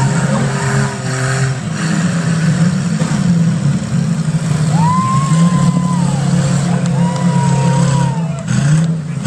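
Several demolition derby car engines running and revving together, a steady loud drone, with voices calling out over it.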